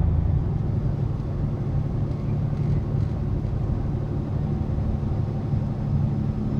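Semi truck's Caterpillar diesel engine running steadily, a low even hum.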